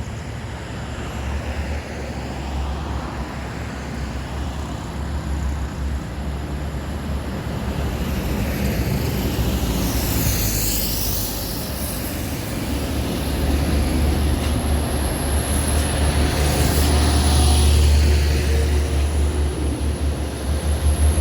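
Heavy diesel trucks on the move: a steady low engine rumble with road and tyre noise that grows louder toward the end.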